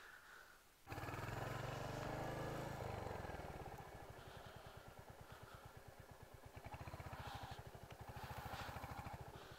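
Motorcycle engine running at low speed with an even pulsing beat as the bike pulls slowly through soft sand. It comes in suddenly about a second in and is loudest for the next two seconds, then eases.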